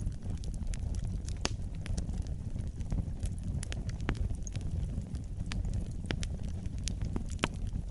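Wood fire burning in a fireplace: a steady low rumble of the flames with sharp, irregular crackles and pops.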